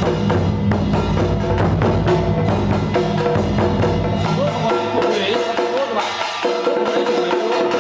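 Ceremonial ritual music: rapid wood block and drum strikes under a held melodic line that slides in pitch. The low, steady bottom of the music drops out about five seconds in.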